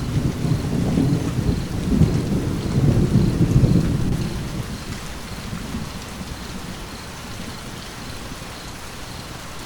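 Steady rain with a rolling thunder rumble that peaks in the first four seconds and fades away about six seconds in, leaving the rain hiss alone.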